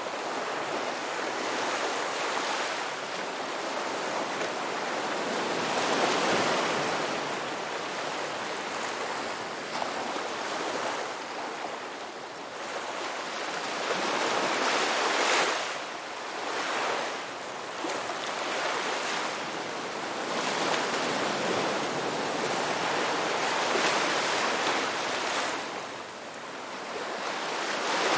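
Ocean waves breaking and washing onto a shore, the surf swelling and easing every few seconds, with one louder break about halfway through.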